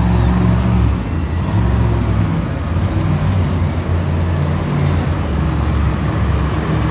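Monster truck engine running loudly: a steady low rumble with broad noise above it.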